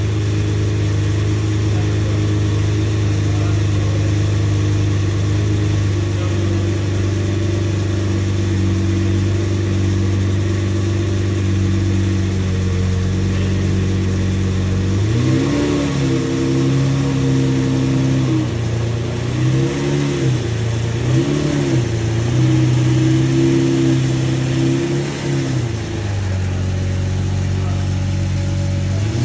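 Lamborghini Murcielago LP 670-4 SV's 6.5-litre V12 running after a cold start, idling steadily at first. From about halfway it is revved in several short blips and one longer held rev that falls back to idle, with one more blip near the end.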